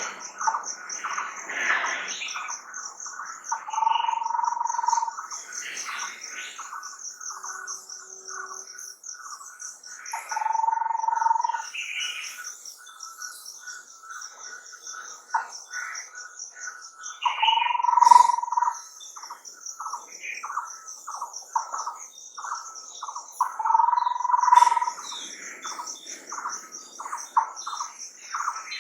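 Several wild birds calling and singing, one repeating a clear, level whistle about a second long every six or seven seconds, over a continuous high, pulsing insect trill.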